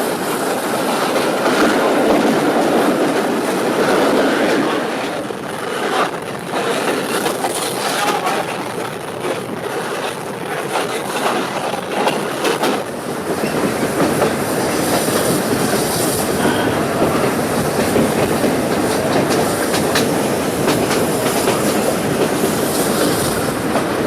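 Steam train of Rx207 locomotive and heritage carriages running along the track: a steady rumble with wheels clicking over the rail joints, and a high hiss joining in about halfway through.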